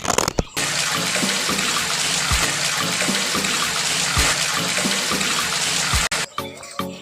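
Water rushing and splashing, a steady gush that starts about half a second in and cuts off suddenly about six seconds in.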